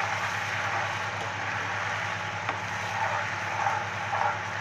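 Ginger-garlic paste frying in hot oil in a steel kadhai, a steady sizzle, stirred with a steel spoon that scrapes the pan a few times. A steady low hum runs underneath.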